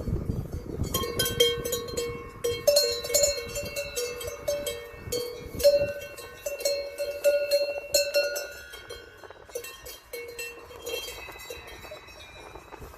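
Cowbells on cattle clanking irregularly, several bells at different pitches, with the strikes thinning out after about eight seconds.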